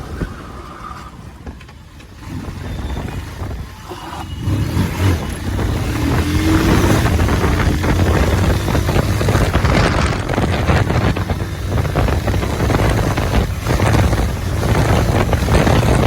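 Motorcycle riding on the road, the engine running under way with wind rushing over the microphone; it grows louder about four to five seconds in.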